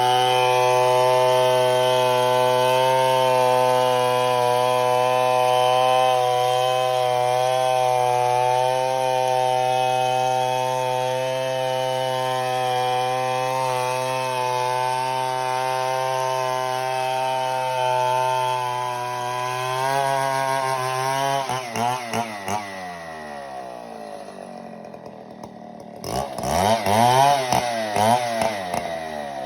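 Two-stroke chainsaw running at steady high revs for about twenty seconds, as in a long cut through wood. It then drops off to idle, and the throttle is blipped up and down a few times near the end.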